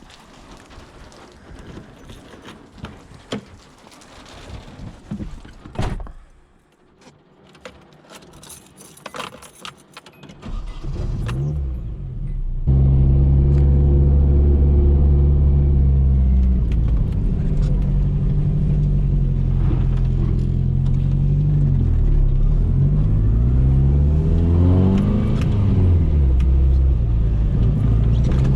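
Clicks and rattles of keys and handling inside a car for about ten seconds. Then the Nissan 240SX's engine starts and runs loudly, its revs falling and rising a few times near the end.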